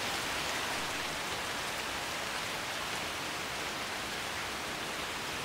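Steady rain, an even hiss of falling rain with no single drops standing out.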